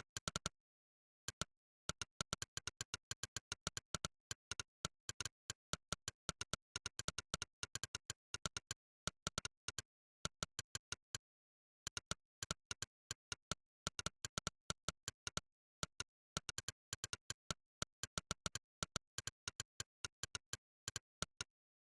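Monkeytype's synthesized 'click' keystroke sound: one short, sharp click per key press, in quick irregular runs of typing. The runs break off briefly a little after the start, near the middle and about two-thirds of the way through.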